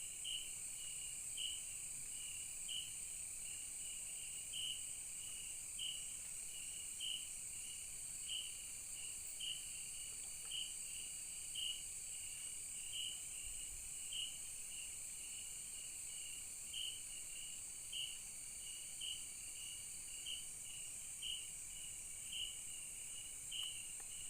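Night-time rainforest insect chorus: a steady high buzzing drone, with a chirping call repeating a little more than once a second.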